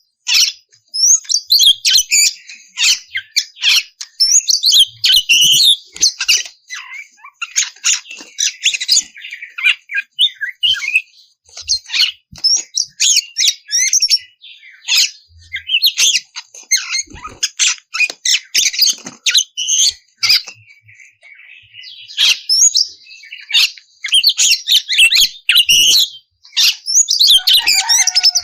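Oriental magpie-robin (kacer) singing loudly in long, rapid runs of varied whistles, chirps and harsh scratchy notes, with a couple of brief lulls.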